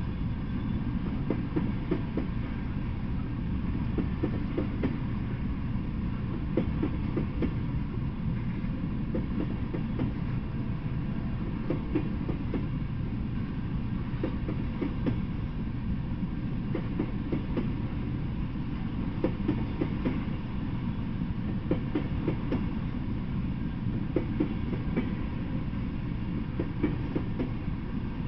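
Freight train of tank cars rolling slowly past, a steady low rumble with irregular clacks and knocks from the wheels over the rail joints.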